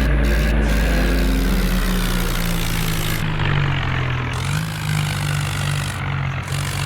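Tractor engine running steadily, its pitch shifting slightly a couple of times.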